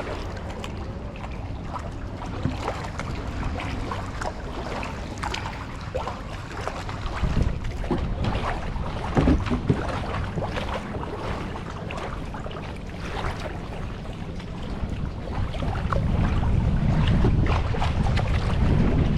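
Kayak paddle strokes, with water splashing and dripping off the blades, over wind buffeting the microphone. The wind noise grows louder near the end.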